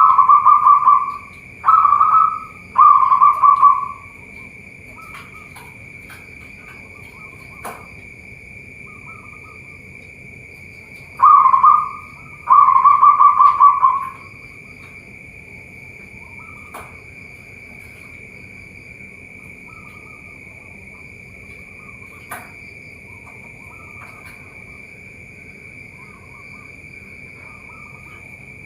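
Zebra doves cooing: two bouts of loud rolling coos, the first near the start and the second a little before the middle, with fainter coos from other doves in between and after. A steady high-pitched insect drone runs underneath.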